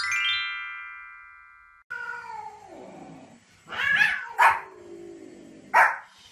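A quick rising run of chime notes that ring on and fade, then a cat's long yowl falling in pitch, followed by three sharp barks from a small spitz-type dog, the last about two seconds in.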